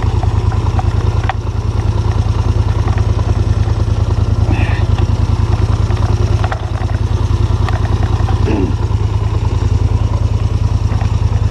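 ATV engine running steadily, with an even, fast pulsing of its firing strokes and a strong low hum; it dips briefly about six and a half seconds in.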